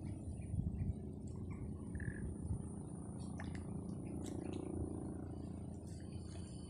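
Outdoor waterside ambience: scattered short bird chirps over a steady low background rumble, with a thin, steady high-pitched whine.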